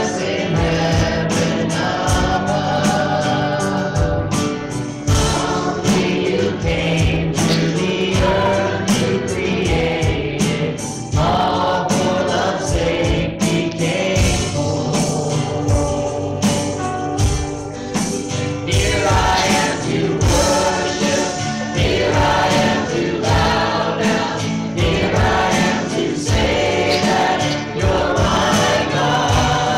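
Live church worship music: voices singing over a band, with a steady drum beat.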